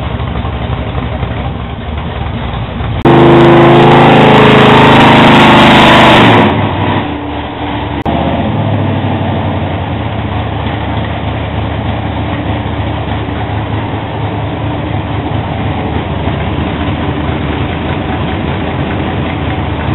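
Freshly rebuilt Blueprint 396 cubic-inch stroker small-block Chevy V8, carbureted, idling. About three seconds in it is revved hard and held loud for about three seconds, then drops back to a steady idle.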